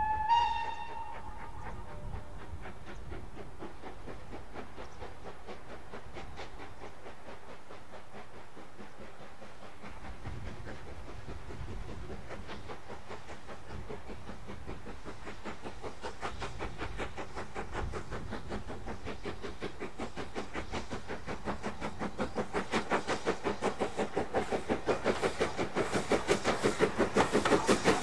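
Steam locomotive: a short whistle toot at the start, then a steady rhythm of exhaust beats that grows louder as the engine draws near.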